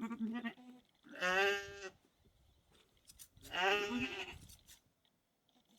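Sheep bleating: two loud, wavering bleats, the first about a second in and the second around three and a half seconds in, with a softer call at the start.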